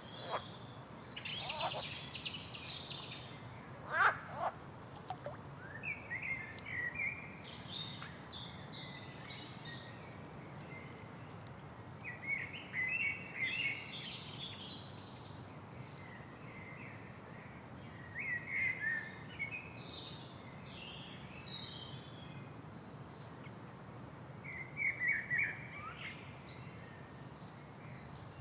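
Several birds singing and calling over a low, steady background noise, one of them repeating a short falling trilled phrase every few seconds, with a loud upswept call about four seconds in.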